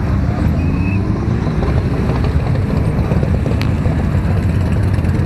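Motorcycle engines of a biker column running together as a steady, loud, low rumble with rapid pulsing.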